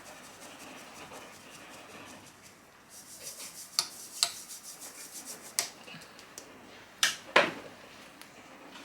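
Flour being sieved through a mesh sieve: soft scratchy rubbing, with several sharp taps on the sieve or bowl from about three seconds in, the loudest two near the end.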